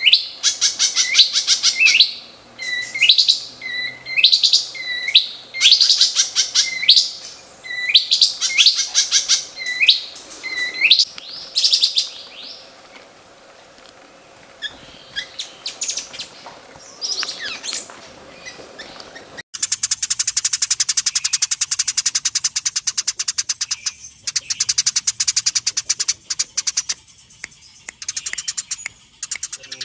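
Songbird song with harsh 'tembak kasar' bursts: first a loud phrase repeated about once a second, each ending in a rising sweep, then quieter scattered calls. After an abrupt cut, a different recording of a fast, dense, rattling song continues.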